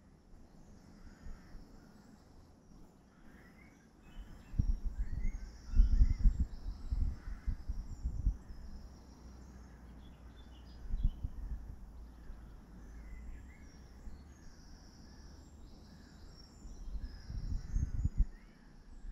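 Birds chirping and calling, with wind blowing on the microphone in gusts that rumble loudest about four to eight seconds in and again near the end.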